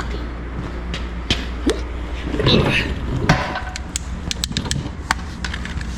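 Handling noises: a rustling burst, then a run of sharp clicks and light knocks, over a steady low hum.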